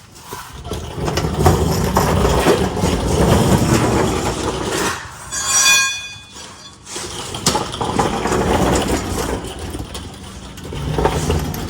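Steel exhaust pipe being slid and worked into position in its hangers: rough metal scraping, rubbing and clunking, with a brief high squeal about halfway through.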